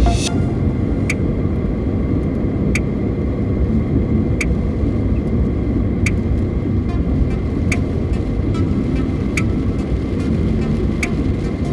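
Car driving along a highway, a steady low road and engine rumble heard from inside the cabin, with a short sharp click repeating about every one and a half seconds.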